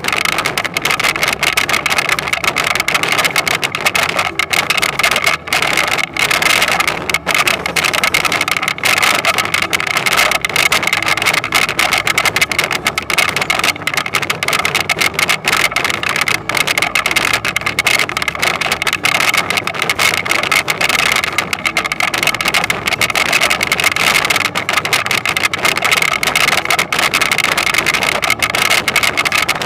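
Toyonoki potato harvester running: a loud, steady mechanical drone that holds unchanged throughout.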